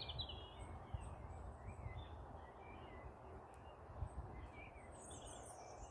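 Small birds chirping and twittering in short, scattered phrases, faint, over a low uneven rumble.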